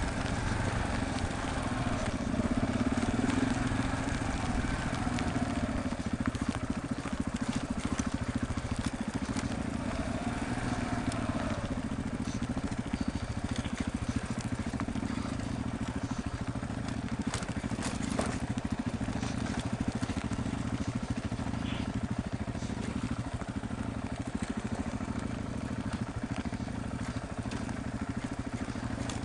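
Motorcycle engine running steadily while under way on a rough dirt mountain road, with a constant rush of wind and road noise. The engine note shifts briefly a few seconds in and again about ten seconds in.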